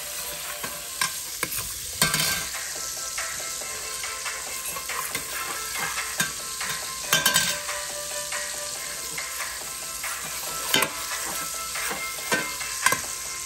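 Chopped garlic sizzling as it sautés in melted margarine in a stainless steel pot, stirred with a metal spoon that clinks and scrapes against the pot now and then.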